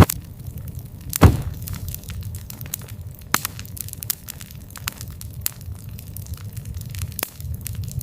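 Wood campfire crackling, with frequent sharp pops and a louder pop about a second in, over a steady low rumble.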